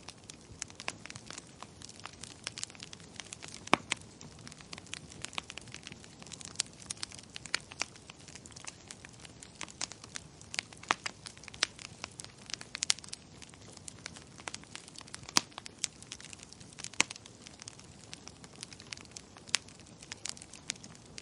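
Wood fire crackling: a dense, irregular run of sharp pops and snaps, a few of them louder, over a soft hiss of burning.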